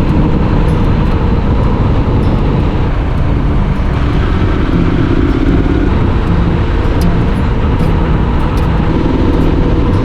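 Motorcycle under way on the road: engine running steadily beneath heavy wind rush on the microphone.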